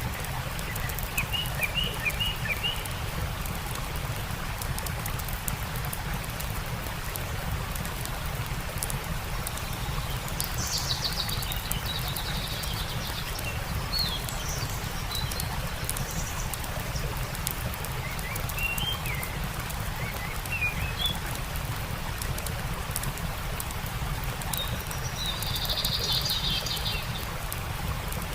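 Steady rush of a flowing stream with the small crackles of a campfire, and songbirds chirping in short phrases now and then: about a second in, several times in the middle, and again near the end.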